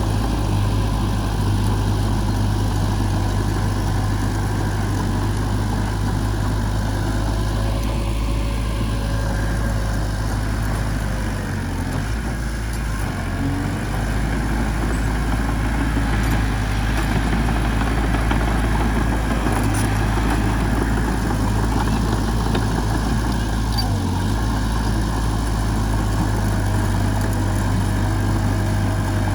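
Heavy diesel engine of a bulldozer or dump truck running steadily at a low, even speed, with brief dips in its low rumble near the middle and again about two-thirds through.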